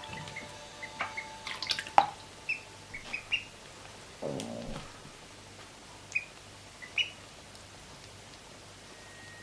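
Ducklings peeping: short, high chirps scattered through, with a few clicks between about one and two seconds in and a brief lower sound about four seconds in.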